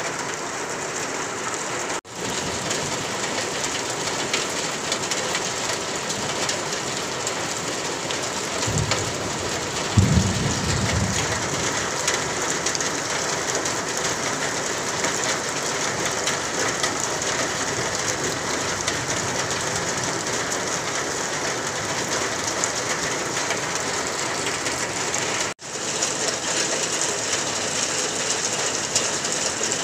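Steady rain falling on trees and garden vegetation, an even hiss. About ten seconds in there is a brief low rumble.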